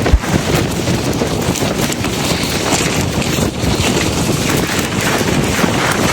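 Strong wind buffeting the microphone: a loud, gusting rush of noise with a low thump just after the start.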